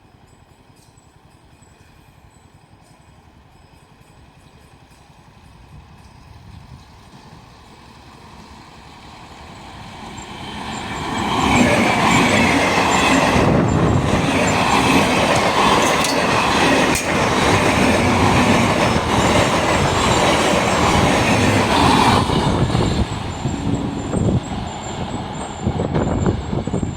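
A train approaching and passing at speed: the rumble and clatter of wheels on the rails build over about ten seconds, stay loud for about ten seconds as the coaches go by, then fade.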